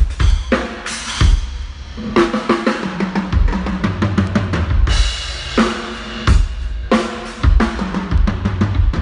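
Live drum kit played as a steady groove: bass drum kicks, snare hits and cymbals, with louder cymbal crashes about five and seven seconds in.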